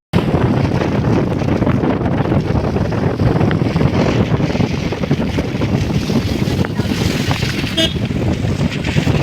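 Loud, steady noise of wind buffeting the microphone and heavy rain while travelling in a vehicle, with a short tone near the end.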